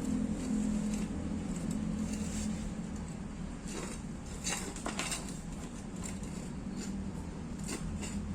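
Katsu 12-inch exhaust fan, driven by a used air-conditioner outdoor fan motor, running with a steady hum. A few short clicks sound around the middle and again near the end.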